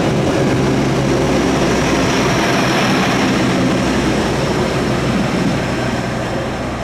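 Passenger train passing close by: a loud, steady rush of wheels and carriages with a low hum underneath, easing off slightly near the end.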